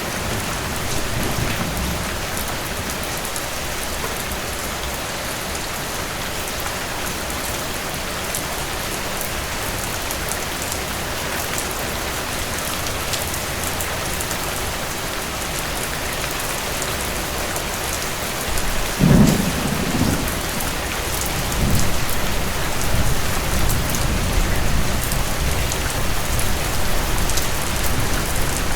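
Steady rain falling, with thunder that breaks in about two-thirds of the way through as a low rumble and keeps rolling in waves.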